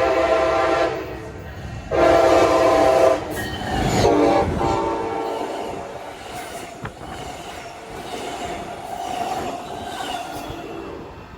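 A passing train's air horn sounding two blasts, one ending about a second in and another lasting about a second from two seconds in, followed by the steady rumble and wheel noise of the train running past, slowly fading toward the end.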